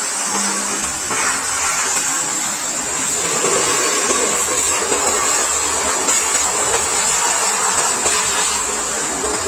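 A pressure washer spraying: a steady hiss of the water jet.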